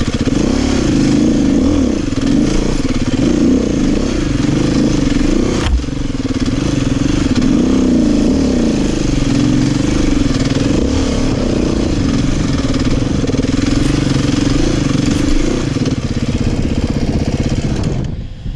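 Beta 500 dirt bike's four-stroke single-cylinder engine running hard as it is ridden off-road, its pitch rising and falling constantly with the throttle. A sharp knock about six seconds in, and the engine note drops away briefly near the end.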